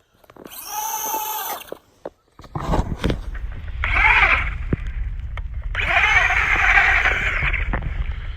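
Traxxas Rustler two-wheel-drive RC car's electric motor whining in three bursts of throttle, the pitch rising and falling with each. A low rumble runs underneath from about two and a half seconds in.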